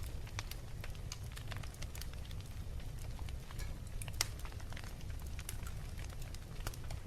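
Fireplace fire crackling, with irregular sharp pops over a steady low rumble; one louder pop about four seconds in.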